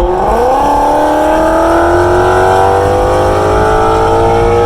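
Car engine accelerating hard under load, its pitch jumping up at first and then climbing steadily through one gear, and dropping suddenly at the upshift at the end.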